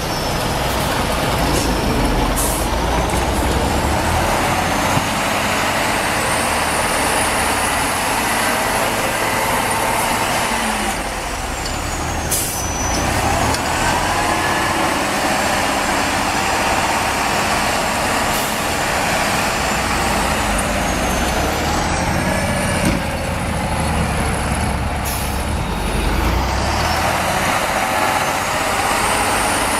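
Diesel engine of a heavy Soviet snow-clearing tractor or bulldozer running under load, with a high whine that slowly rises and falls in pitch several times.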